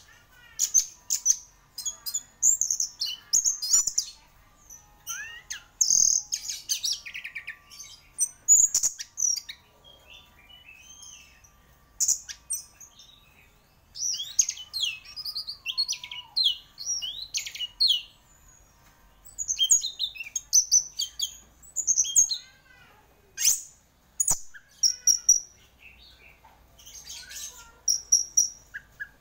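Orange-headed thrush (anis merah) singing continuously: phrases of rapid, varied, high-pitched whistles and trills, broken by short pauses.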